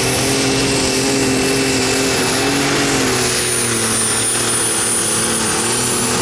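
Super stock pulling tractor's engine running at full power under load during a pull: a loud, steady drone with a thin high whine on top, its pitch sagging slightly about halfway through.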